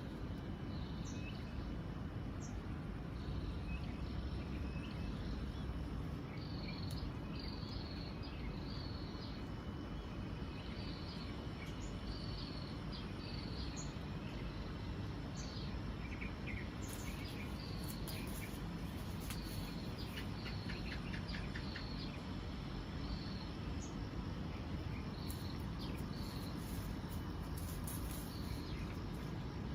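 Outdoor ambience: a steady low rumble with many short, high chirps repeating throughout and a few faint clicks in the second half.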